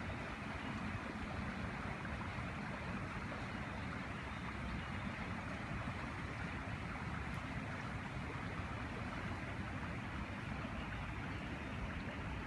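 Steady rush of flowing floodwater, an even noise with a low rumble under it.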